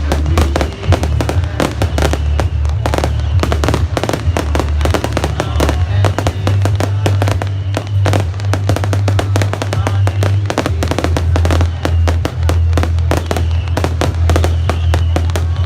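Fireworks going off in rapid succession, a dense run of bangs and crackles, over loud music with a heavy bass line.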